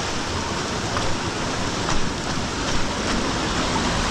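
Steady rushing of falling and flowing water from the creek and its small tributary waterfalls, with a few faint splashy ticks.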